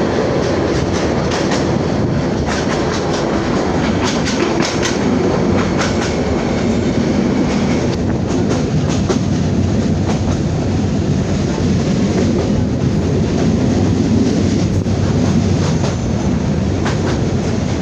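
Passenger train running at speed: a steady rumble of the carriages with irregular clicks and clatter of the wheels over the rail joints.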